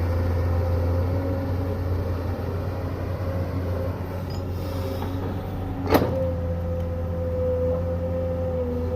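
Excavator engine running steadily with a constant whine over the low hum; one sharp knock about six seconds in.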